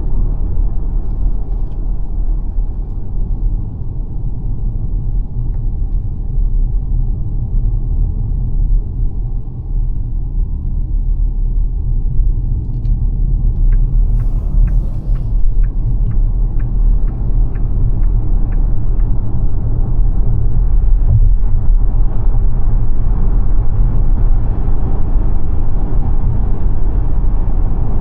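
Road and tyre rumble of the XPENG G9 Performance electric SUV being driven, with no engine note, growing somewhat louder over the last third. Midway, a run of light ticks at about two a second lasts about five seconds.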